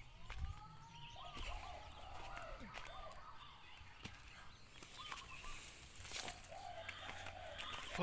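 Several overlapping fowl-like bird calls, arching notes that rise and fall, thickest in the first few seconds and scattered after.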